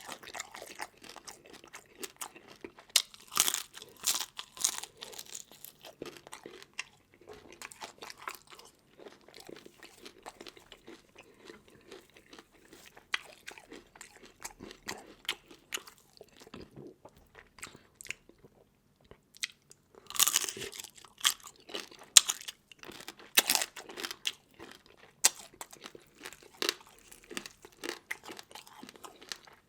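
A person chewing and crunching seafood in a mukbang, with runs of sharp cracks about three seconds in and again past the twenty-second mark.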